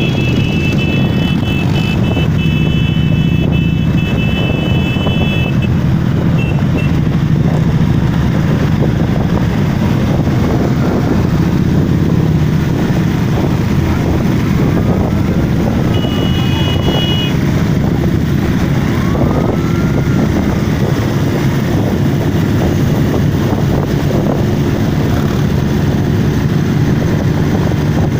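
Many motorcycle engines running together in a steady, loud, continuous throb. A high held tone sounds through the first five seconds or so and again briefly a little past the middle. Two short rising-then-falling whistles are heard faintly in the second half.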